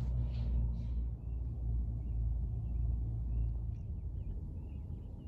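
A steady low rumble, easing a little near the end, with a series of faint, short bird chirps starting about a second in.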